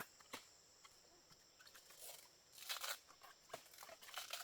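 Faint rustling and crunching with scattered sharp clicks, loudest about two and a half seconds in and again near the end.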